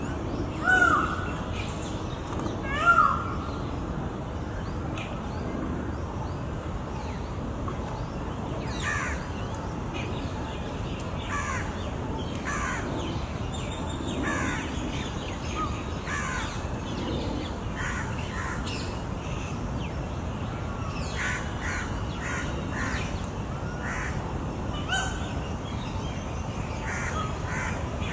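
Birds calling: two loud calls about one and three seconds in, then many shorter calls from several birds over a steady background hiss.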